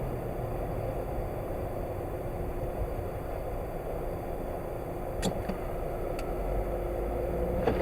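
Steady road and engine noise heard inside a moving car's cabin, with a faint steady hum and two light clicks about five and six seconds in.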